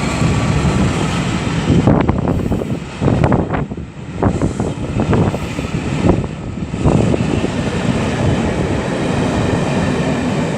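Class 67 diesel-electric locomotive passing at speed: a steady heavy rumble of engine and wheels on rail, with a run of sharp clacks from about two to seven seconds in.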